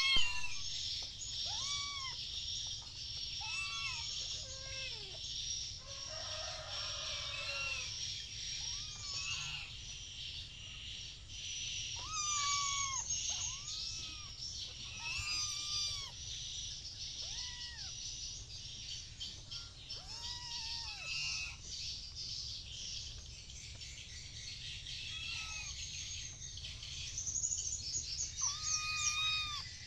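Kittens mewing again and again as they try to nurse, each cry short and rising then falling, over a steady bed of high chirping.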